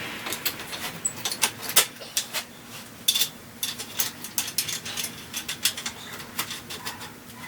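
Irregular light metal clinks and taps, a dozen or more, from tools and steel parts being handled while bolting a swing arm and shock onto a pit bike frame.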